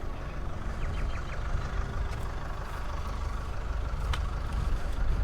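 Van engine running with a steady low rumble. A few faint short chirps come about a second in, and a single click comes near the end.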